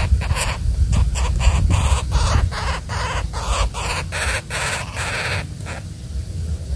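Woodpecker giving a rapid series of short harsh calls, about three a second, ending about a second before the end. The calls are typical of a bird in alarm. A steady low rumble of wind on the microphone runs underneath.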